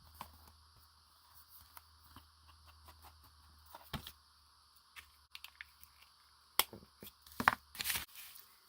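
Paper being handled: faint rustling with scattered light clicks and taps, a few sharper ones in the second half.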